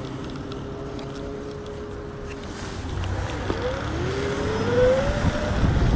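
A motor whine, steady at first, then rising in pitch from about halfway through as it speeds up, over a low rumble of road and wind noise that grows louder toward the end.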